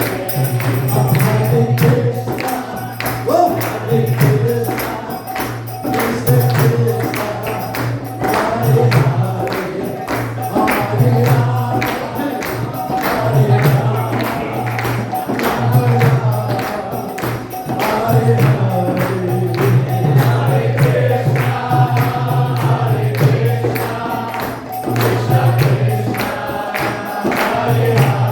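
Devotional kirtan: a group of voices chanting together over a steady beat of hand cymbals.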